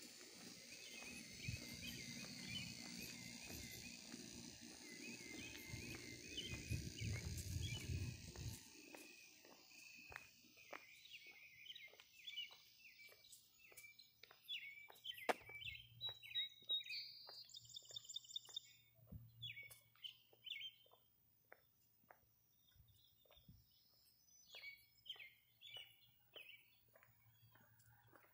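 Small birds chirping and twittering in short repeated calls, one a brighter ringing call around the middle. A low rumble with a high hiss fills the first eight seconds or so, then stops, leaving a faint steady hum.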